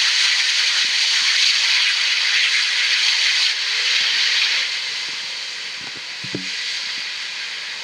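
Jet aircraft engine noise heard as a loud, steady hiss that fades away over the second half.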